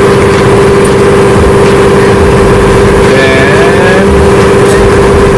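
A loud, steady motor-like hum, with a few brief sliding tones about three seconds in.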